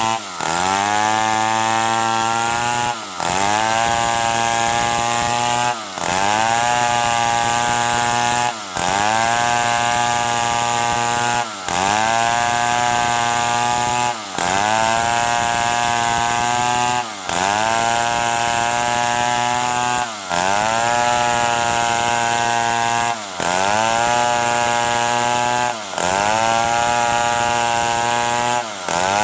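Stihl 070 two-stroke chainsaw running at high revs while cutting wood. About every three seconds its engine speed briefly drops, then climbs back.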